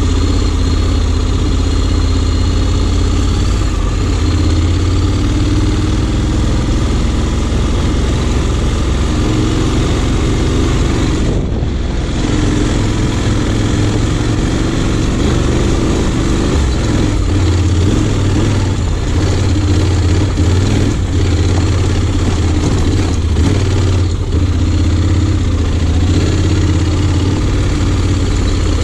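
2020 Honda X-ADV 750's parallel-twin engine running steadily.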